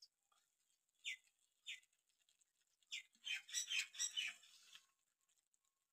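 Small bird chirping: three short separate chirps, then a quick run of chirps about three to four seconds in.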